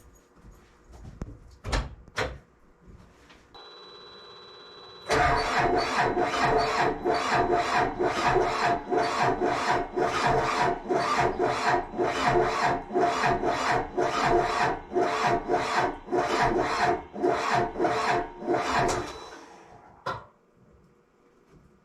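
Yanmar Vio80 excavator's diesel engine cranked by its starter motor, turning over slowly in an even rhythm of about two strokes a second for some fourteen seconds without catching, then stopping: a failed start that the owner puts down to a failing battery. A short steady electronic tone sounds just before the cranking begins.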